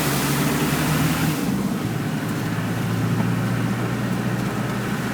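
Land Rover Defender 90's engine running at a steady drone while driving through floodwater, with a loud rushing hiss of water spray that cuts off about a second and a half in.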